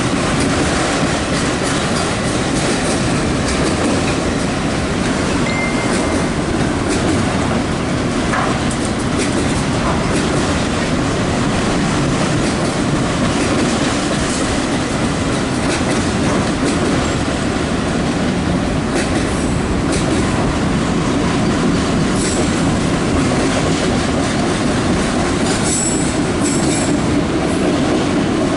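Empty autorack cars of a long CSX freight train rolling past close by: a loud, steady rumble of steel wheels on rail, with frequent sharp clicks and clanks as the cars go by.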